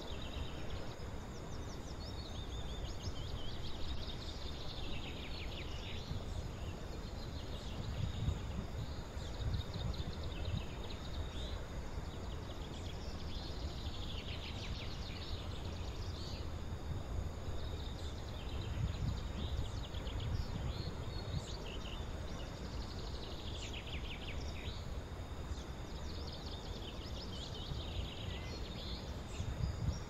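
Small birds chirping and trilling in scattered bursts, heaviest at about 2, 14 and 24 seconds in. Beneath them runs a low rumble that swells and fades, along with a thin steady high tone.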